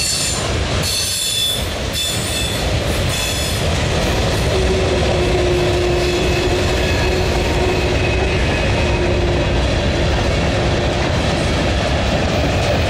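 Freight cars of a mixed manifest train rolling past on steel rails: a steady heavy rumble of wheels on track. High squealing tones come and go in the first few seconds, and a lower steady whine sounds from about four seconds in.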